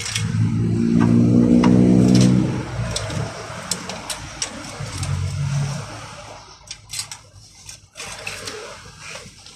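A motor hums loudly for about two and a half seconds, then briefly again about five seconds in, with scattered light clicks and knocks.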